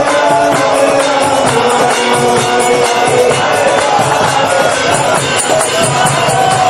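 Devotional kirtan music: held melodic notes over a steady jingling percussion beat, as of hand cymbals.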